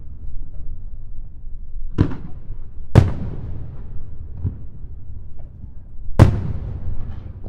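Aerial fireworks shells bursting: loud booms about two, three and six seconds in, with a smaller one between, each followed by a rolling echo that dies away slowly.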